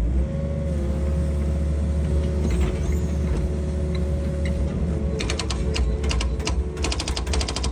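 Excavator running with a deep engine rumble and a steady hydraulic whine. From about five seconds in, a rapid metallic clicking and clattering joins it.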